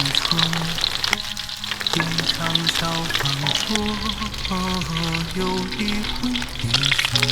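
Food frying in hot oil, a dense steady sizzle and crackle, with background music carrying a simple melody over it.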